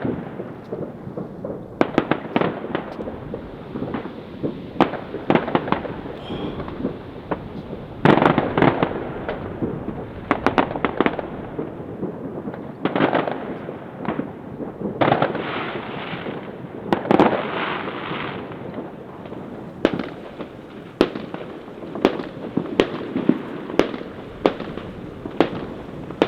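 New Year's Eve fireworks going off continuously: clusters of rapid bangs and crackling from firework batteries and firecrackers, with single bangs in between and a steady background of further explosions.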